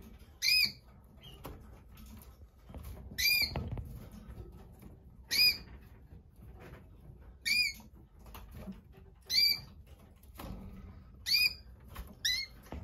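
Canaries giving short single chirp calls, one about every two seconds, seven in all, with a few soft knocks between.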